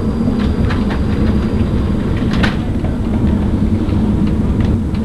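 Class 458 Juniper electric train heard from inside the carriage while running: a steady low rumble and hum. A few sharp clicks and rattles come through it, the loudest about two and a half seconds in.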